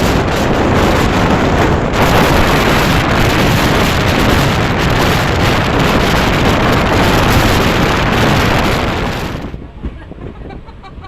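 Loud rush of wind and rail noise from a moving train. It starts abruptly, holds steady for about nine seconds and falls away suddenly near the end.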